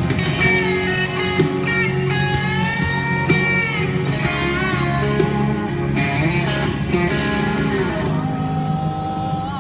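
Instrumental break in a slow country ballad: a lead guitar solo with bending, sliding notes over a steady band backing.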